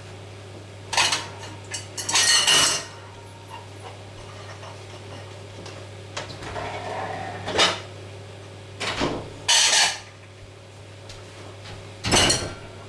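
Kitchen dishes and utensils clattering in a series of short, sharp bursts of handling noise, over a steady electrical hum.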